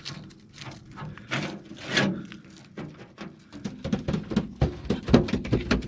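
A run of taps, knocks and rubbing from the body of an old truck being handled and felt over, denser and heavier from about four seconds in.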